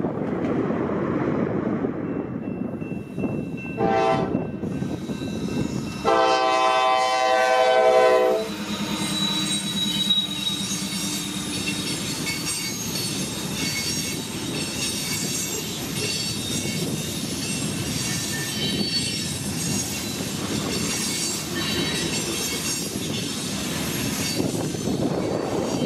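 Freight train locomotive horn sounding a short blast about four seconds in, then a long blast of about two seconds, the loudest sound here. A low rumble comes before it, and after it the train rolls on with wheel squeal and clattering wheels on the rails.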